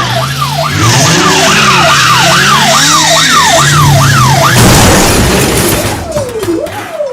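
Police siren in fast yelp mode, rising and falling two or three times a second, with other gliding siren tones beneath it. About four and a half seconds in it cuts to a loud rush of noise, and near the end a slower, lower siren wail begins.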